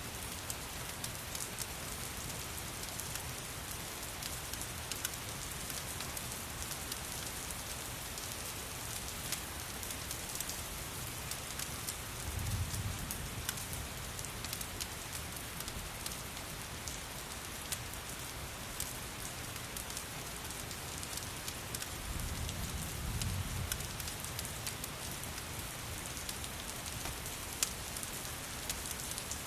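Steady rain mixed with a crackling fireplace: sharp crackles over an even hiss of rain. Two low rumbles come through, about twelve seconds in and again about twenty-two seconds in.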